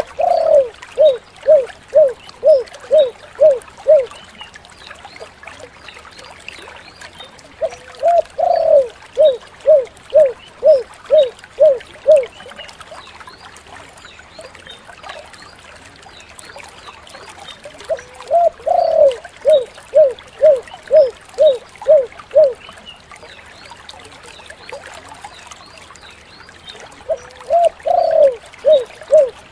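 Spotted dove (tekukur) cooing. Each phrase opens with a drawn-out coo, then runs into seven short, evenly spaced 'kuk' notes at about two a second. The phrase repeats roughly every nine to ten seconds, four times, and the last is cut off at the end.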